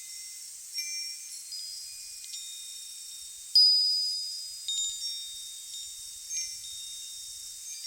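Wind chimes ringing, with scattered high notes struck at random and fading out, the loudest strike about three and a half seconds in, over a steady high hiss.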